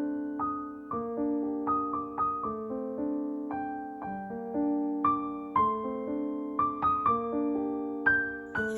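Soft background piano music, a gentle melody of single notes over held chords.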